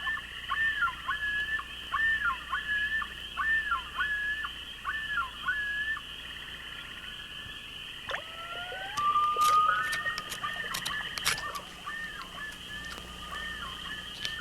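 A night bird repeating a short whistled phrase over and over, each note rising and falling. It breaks off for a few seconds, with a single gliding note, then starts again. A steady high trilling night chorus runs behind it, with a few sharp clicks near the middle.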